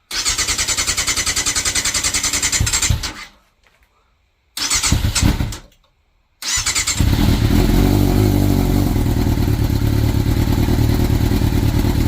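Sportbike engine being cranked on its electric starter after winter storage: a crank of about three seconds that doesn't catch, a pause, a short second crank, then a third try where it fires about six seconds in and keeps running steadily. It runs in a way the owner likens to something being in the air cleaner.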